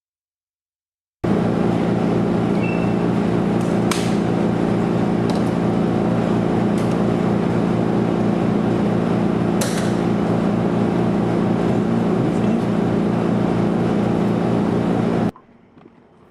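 A loud, steady mechanical drone made of several fixed tones. It starts abruptly about a second in, holds unchanged with a couple of faint clicks, and cuts off abruptly about a second before the end.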